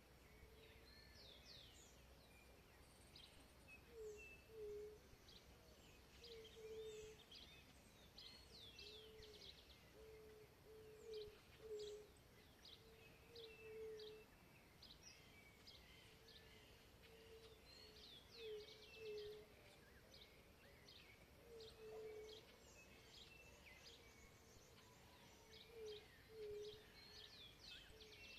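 Faint chorus of wild birds singing: many quick high chirps and trills, with a low two-note call repeated every couple of seconds.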